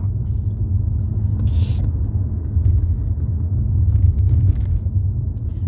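Steady low rumble of a car driving, heard from inside the cabin, with a short hiss about one and a half seconds in.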